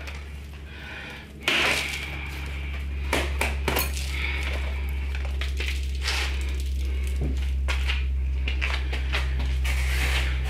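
Metallic clinks, knocks and scraping from handling a dryer's vent hose and its clamp as they are taken off, the loudest clatter about a second and a half in. A steady low hum runs underneath and stops suddenly at the very end.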